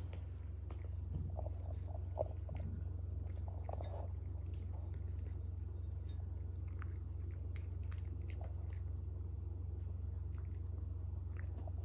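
A cat chewing and crunching freeze-dried chicken tenderloin in short bouts of small crisp clicks, over a steady low hum.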